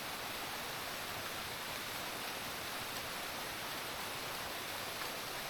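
Steady rushing of a waterfall: an even hiss of falling water with no breaks.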